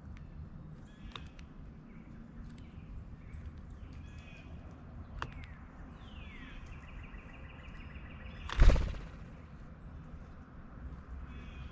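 A bird calls with a falling note and then a quick run of repeated high notes. A loud thump follows just after, about eight and a half seconds in, and scattered light taps and clicks are heard throughout.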